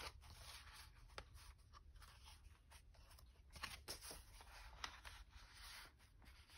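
Faint rustling of paper and card being handled and slid about, with a few light taps.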